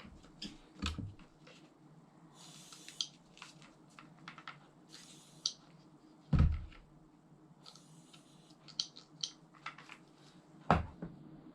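Small clicks and taps of a baitcasting reel's parts being handled during cleaning, with three short hissing bursts and three louder knocks.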